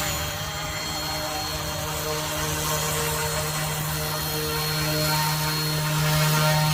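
Caraman UH-1 Huey RC helicopter's electric motor and rotors running in flight, a steady buzzing hum that grows a little louder near the end.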